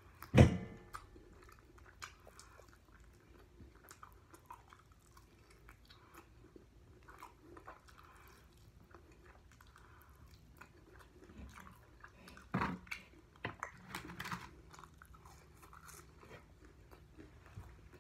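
Close-up chewing and biting into fried chicken wings, with small crunches and mouth sounds. A sharp loud thump comes about half a second in, and a louder run of bites about twelve to fourteen seconds in.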